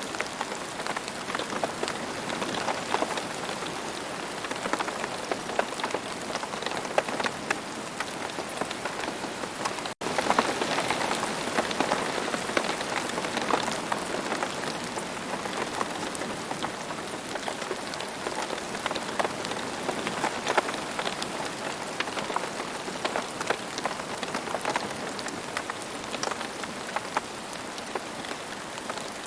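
Steady rain falling, a constant hiss dotted with many separate drop hits. About ten seconds in the sound cuts out for an instant, then resumes slightly louder.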